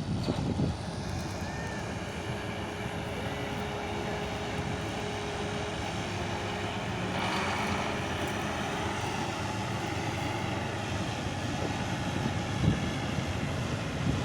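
Diesel engine of a large farm machine running steadily under load, with a short swell of broader noise about seven seconds in.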